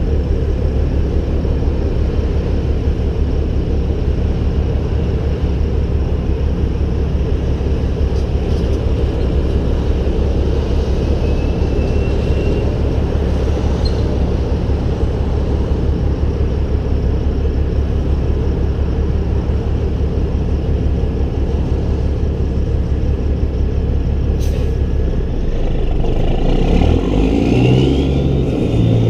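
Peterbilt 388 semi truck's diesel engine running with a steady drone, its note changing and rising near the end as the revs pick up.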